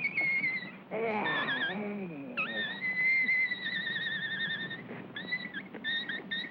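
Vintage cartoon soundtrack effect: a high, wavering whistle-like tone with vibrato that holds for most of the stretch and breaks into short warbles near the end, with a brief low descending moan about a second in.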